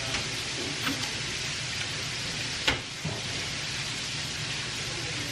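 Chicken frying in hot oil: a steady sizzle, with a few sharp clicks, the loudest about halfway through.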